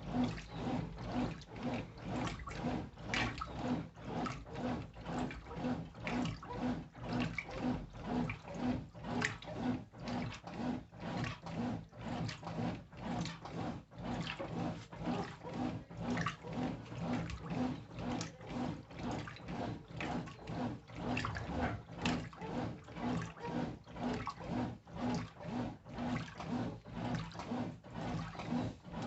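Brastemp Intelligent 7 kg top-loading washing machine agitating: the motor hum pulses with each back-and-forth swing of the agitator, slightly faster than once a second, over water sloshing in the tub.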